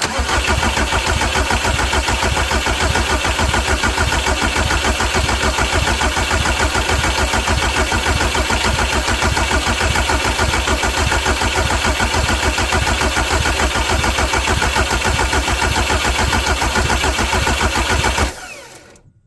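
Volkswagen Jetta TDI diesel being cranked over on its starter for about 18 seconds in an even, steady rhythm without catching, then cut off suddenly. The fuel system is still being bled of air after a fuel filter change, so the engine will not fire yet.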